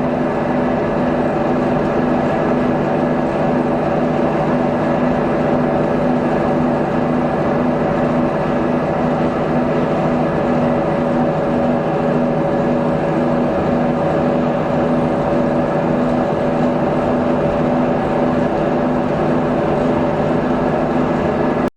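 A car's heater blower fan running steadily inside the cabin over the idling engine, a constant hum with a few steady tones that cuts off suddenly at the end.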